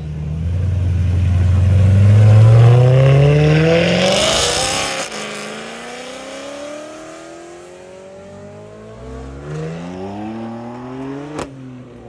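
A car accelerating hard past, its engine revving up and loudest about two seconds in. It shifts about five seconds in, then keeps pulling away as the engine note climbs again and fades. A sharp click near the end.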